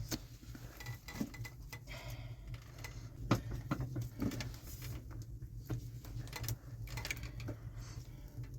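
Irregular light clicks and knocks, the sharpest about three seconds in, over a steady low hum.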